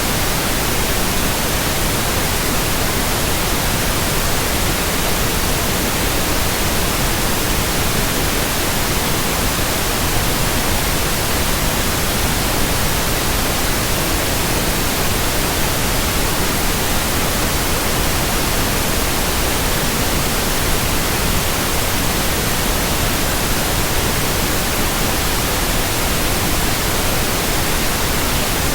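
Steady, even white-noise hiss with no rhythm or swells.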